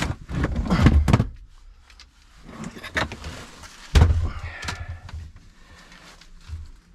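Heavy thuds and knocks as an old 95 amp-hour leisure battery is pulled out of its compartment and bumped against it: a cluster of knocks in the first second, another about three seconds in, and the loudest thump about four seconds in.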